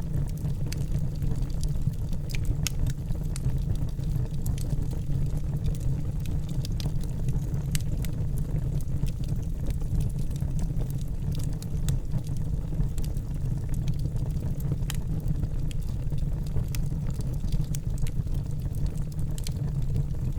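Wood fire burning in a fireplace: a steady low rumble of flames with irregular sharp crackles and pops, several a second at times.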